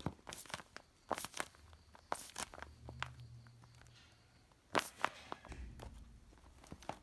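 A string of light, irregular taps and clicks from objects being handled and set down. They come in two clusters, the second about five seconds in.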